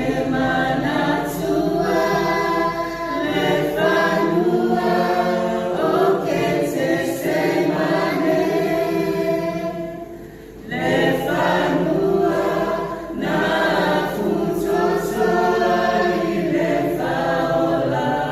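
A choir singing in many voices, apparently unaccompanied, with a brief break about ten seconds in.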